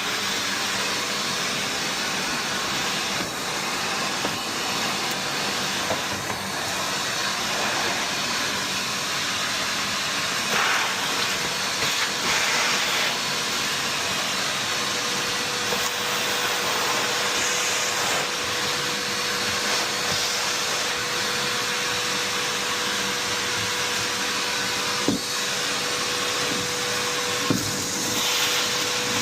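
A motor-driven machine with the steady hiss of a vacuum starts abruptly and runs without a break. A faint steady tone joins about halfway through, and there are a couple of light knocks near the end.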